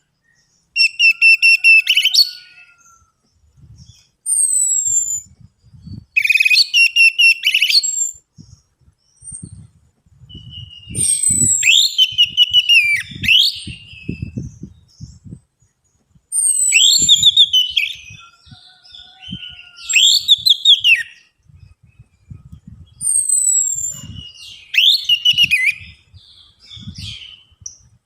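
Orange-headed thrush singing a lure song: varied phrases of high falling whistles and fast trills, a new phrase every few seconds.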